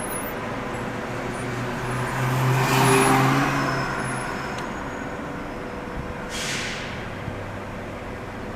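Car on the move: steady road and engine noise, with a louder vehicle swelling past about three seconds in. A short hiss follows a little after six seconds.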